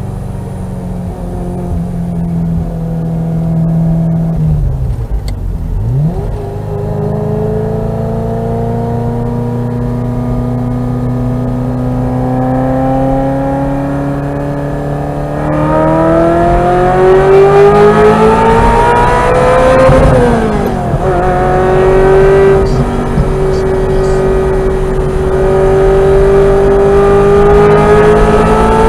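Ferrari 348's V8 with an MS Racing exhaust, accelerating with the revs climbing steadily. The revs dip briefly about five seconds in, and the note turns louder and harsher about halfway through. A sudden drop in pitch about two-thirds of the way through is followed by the revs climbing again, like a gear change under acceleration.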